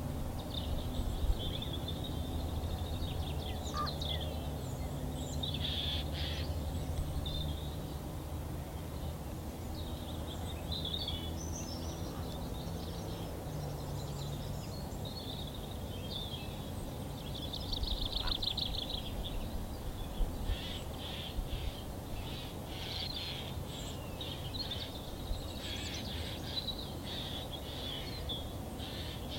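Wild songbirds singing: a series of high chirps and trilled phrases, with a fast trill about eighteen seconds in followed by a run of quick chirps, over a steady low rumble.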